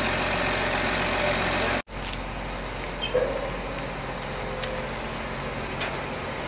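A farm machine's engine running steadily. About two seconds in, the sound cuts off abruptly and comes back as a quieter, steady engine hum with a few faint clicks.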